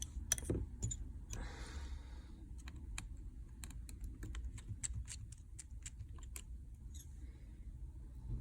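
Scattered light clicks and taps of a precision screwdriver working the tiny Face ID screws on an iPhone XR screen, quick irregular ticks like typing.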